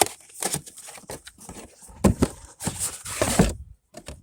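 Handling noises as a new distributor cap is unpacked: irregular knocks and rustling of its packaging, loudest about two and three seconds in.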